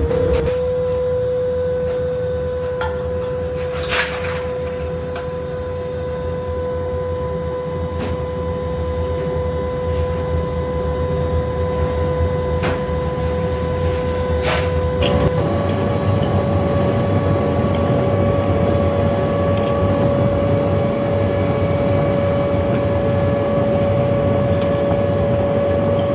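Workshop machine motor running with a steady hum over a low rumble; the hum steps slightly higher about fifteen seconds in. A few sharp clicks sound over it.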